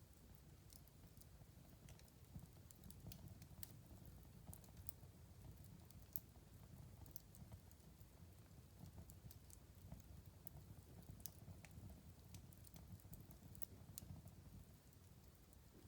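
Faint wood fire crackling in a fireplace: irregular sharp pops and snaps over a low, steady rumble of the flames, with one louder pop about six seconds in.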